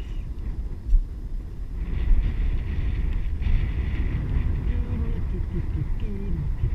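Wind rumbling on the microphone of a camera carried on a moving bicycle, with a steady hiss from about two seconds in. Faint voices come in near the end.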